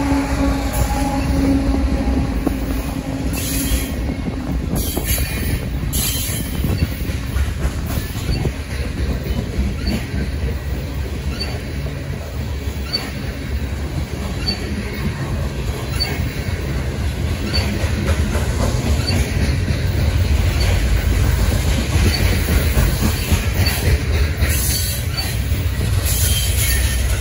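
A loaded coal train rolling past: a steady rumble of loaded hopper cars' wheels on the rails, with the last of the locomotive horn dying away in the first second. A faint high tick recurs about every second and a half.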